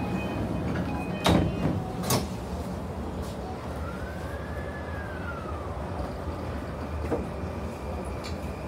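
JR East E235 series electric train heard from inside a motor car: a steady low running rumble, with two sharp knocks about one and two seconds in. Around the middle, a motor whine rises and then falls once.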